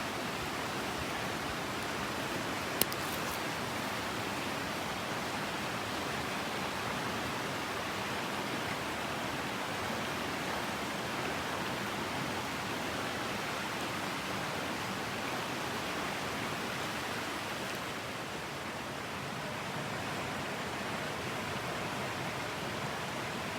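Mountain stream rushing steadily, a constant even wash of water noise, with a single sharp click about three seconds in.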